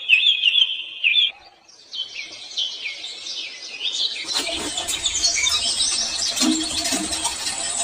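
Birds chirping in quick repeated short chirps; about four seconds in a fuller, denser background sound joins beneath the chirps.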